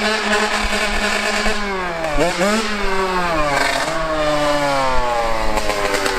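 Dirt bike engine running at steady revs, blipped twice a little over two seconds in, then winding down in pitch as the throttle is eased off.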